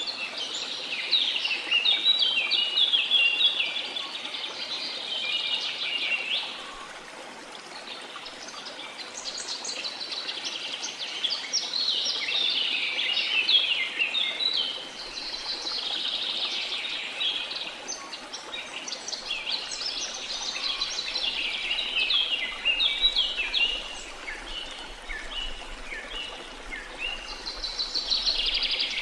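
Birdsong: several long phrases of rapid, high chirping notes with short pauses between them, over a faint steady hiss.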